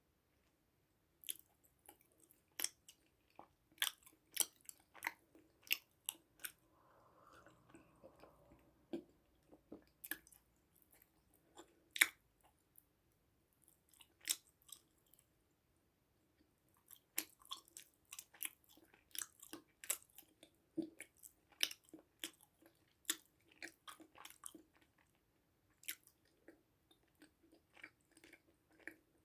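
A person chewing and biting food close to the microphone: irregular sharp, crisp crunches and mouth clicks, with a few pauses of a second or two.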